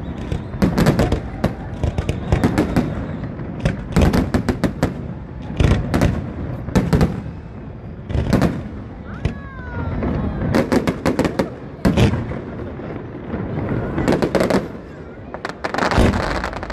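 Aerial fireworks display: a continuous barrage of shell bursts and bangs, many coming in rapid clusters of crackling reports, over a constant low rumble.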